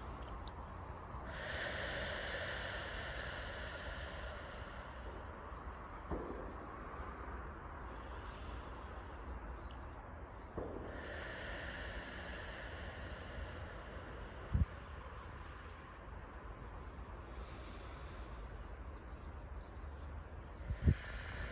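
Slow, deep breaths drawn in through the nose and let out through the mouth, three long airy exhalations over a steady low outdoor rumble, with faint high chirping throughout.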